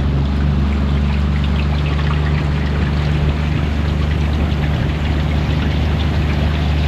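Motorboat engine running steadily under way, a constant low drone with the hiss of water rushing past the hull.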